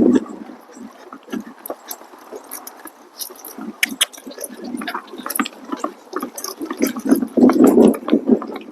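Gusty wind buffeting the microphone in uneven low rumbles, heaviest near the end, with scattered sharp clicks and knocks over it.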